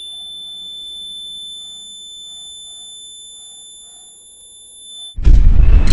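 Piezo buzzer of a home-made rain detector alarm sounding one continuous high-pitched tone, the alarm signalling that water has been detected. About five seconds in it cuts off and loud music starts.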